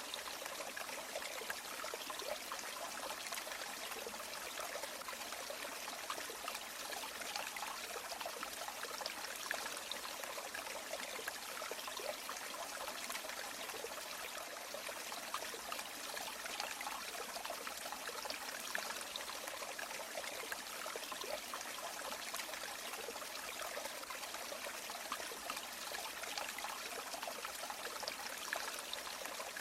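A river or stream flowing: steady rushing and trickling water with fine splashy detail and little low rumble.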